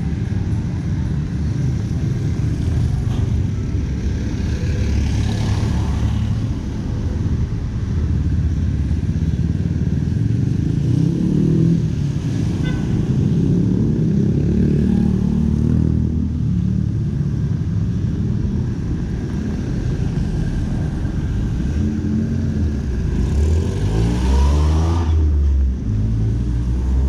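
Busy street traffic: car and motorcycle engines running and passing, with one engine revving up, its pitch rising, a little before the end.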